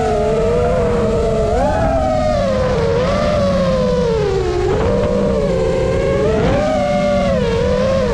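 Small model-aircraft propeller motor whining, its pitch rising and falling repeatedly as the throttle and distance change, over heavy wind rumble.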